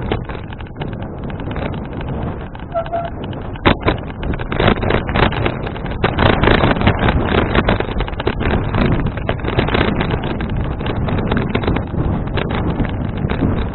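Wind buffeting an action camera's microphone on a moving bicycle: a loud rushing with frequent gusty bursts, stronger from about four and a half seconds in.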